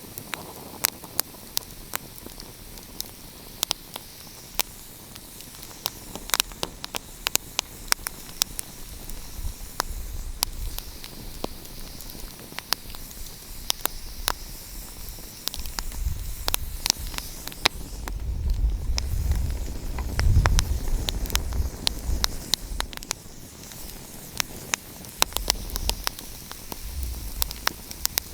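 Wood fire crackling: frequent irregular sharp pops and snaps over a steady hiss, with a low rumble that swells up about two-thirds of the way through and then eases off.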